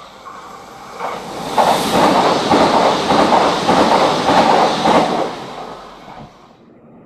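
Renfe train passing close by on the track: its noise builds up, the wheels clatter rhythmically over the rail joints for a few seconds, then it fades away.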